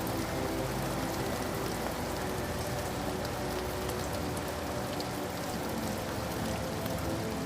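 Steady rain falling, a dense even hiss with scattered individual drop ticks, and faint steady low tones underneath.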